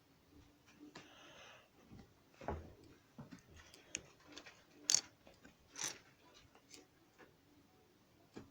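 A Lego set being unpacked by hand: scattered clicks and taps of plastic packaging and parts, with a brief rustle about a second in.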